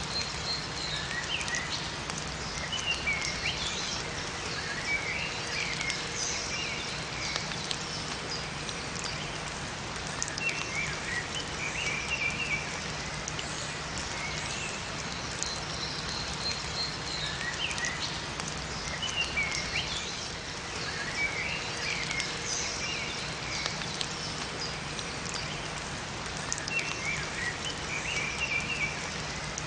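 Steady rain falling in a forest, with small songbirds giving short bursts of high chirping every several seconds over it.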